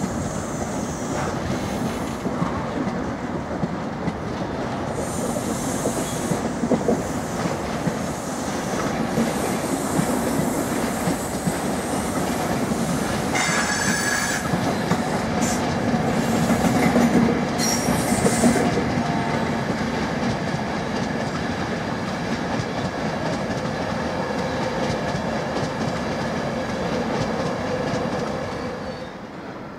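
A train passing through on the rails: a steady noise of wheels on track with a thin high-pitched squeal through the middle, loudest a little past halfway and falling away near the end.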